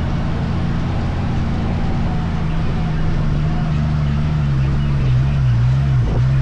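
Dune buggy engine running steadily under way, its note dropping about five seconds in and then wavering up and down.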